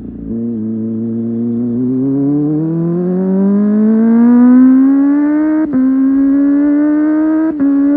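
Kawasaki ZX25R SE's 250 cc inline-four engine pulling under way: the revs climb steadily for a few seconds, then two quick upshifts, the second near the end, each cut the note briefly and drop the pitch a little before it climbs again.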